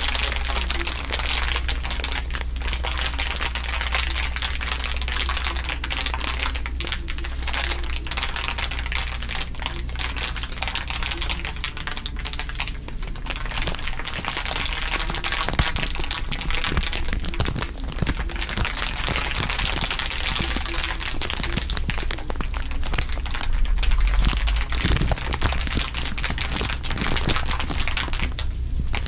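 Layered crinkling, several crinkle tracks overlaid into a dense, continuous crackle, over a steady low hum.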